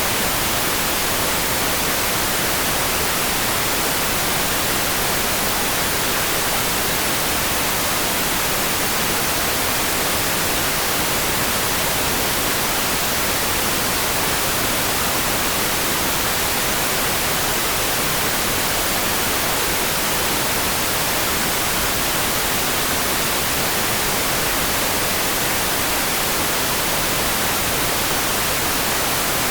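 Steady rain sound for sleep: an even hiss with no separate drops, thunder or other events, brighter toward the treble and unchanging throughout.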